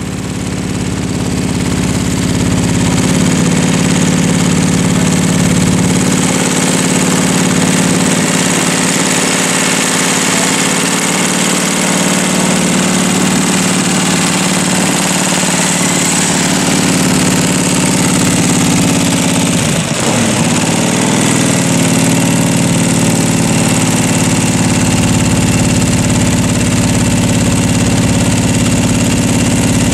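Vintage Morgan three-wheeler's engine idling steadily. About twenty seconds in its speed sags for a moment and then picks up again.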